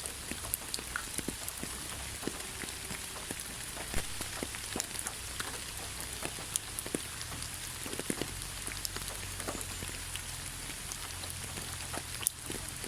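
Steady rain falling, an even hiss with many separate drops tapping and pattering close by, a few louder drips standing out.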